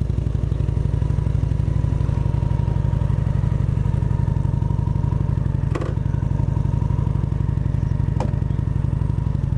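Motorcycle engine running at a steady speed, with two brief clicks about six and eight seconds in.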